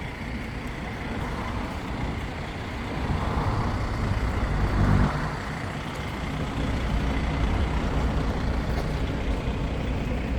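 Bus engine running close by, a low rumble that swells about four to five seconds in and stays strong to the end.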